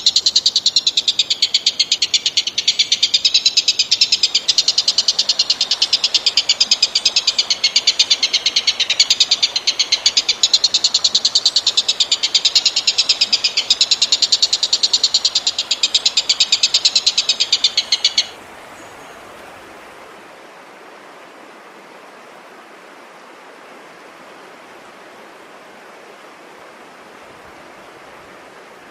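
A high-pitched animal trill made of very fast, even pulses, running continuously for about eighteen seconds and then stopping suddenly, leaving a steady faint hiss.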